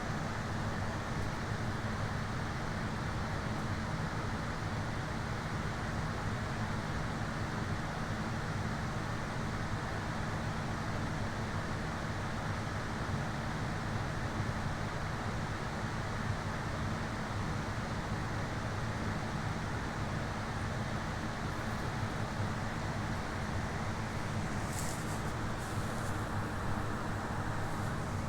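Steady, unbroken low rumbling noise with a hiss above it, the kind heard as road and engine noise in a moving car.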